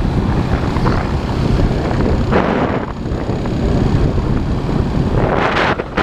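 Motorcycle engine running while riding in traffic, a steady low drone under rushing wind noise on the camera microphone. Two short swells of rushing noise come about two and a half seconds in and again near the end.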